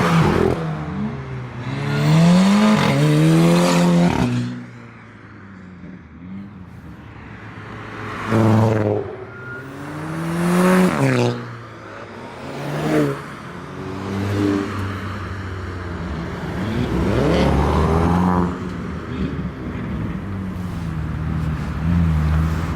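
Volkswagen-group performance cars accelerating hard past one after another, engines revving with rising pitch through the gears. There are several loud passes, the loudest about 2–4 s in and again around 8–11 s, with a quieter lull between them.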